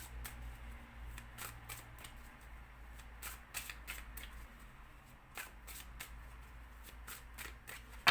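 A deck of divination cards being shuffled by hand: a run of irregular soft flicks and riffles, with one louder snap of a card at the very end.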